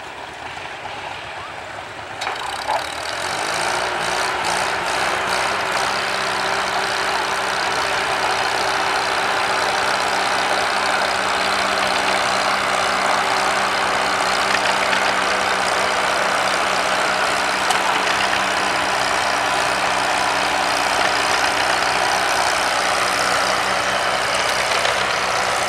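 Antique farm tractor engine running hard, pulling a weight sled in a tractor pull. It comes up loudly about two seconds in, then holds a steady, even pitch.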